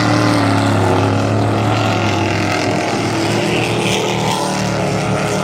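Race truck engines running hard at speed on a dirt oval, several engines overlapping in a loud, steady drone that rises and falls slightly in pitch as they go around.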